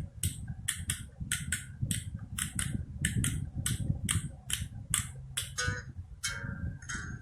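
Spoons played as a percussion instrument, clacking in a steady rhythm of about three strikes a second, often in pairs, over a low accompaniment. A brief pitched sound comes in near the end.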